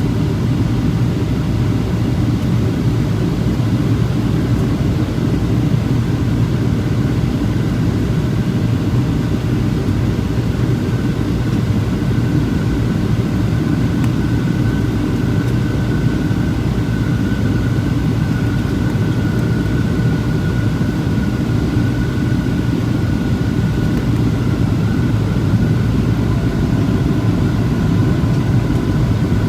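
Steady rumble and hum of a Boeing 737-700 airliner, its engines and airflow running evenly, with a faint high tone above the rumble.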